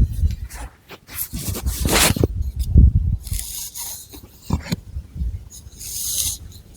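Long fingernails scratching and rubbing through long hair and on the scalp, close to the microphone: irregular scratchy strokes with soft low thuds and a couple of longer hissing sweeps.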